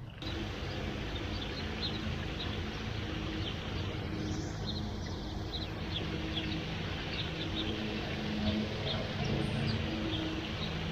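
Floodwater draining into a street storm drain, a steady rushing wash, with small birds chirping throughout and a low steady hum underneath.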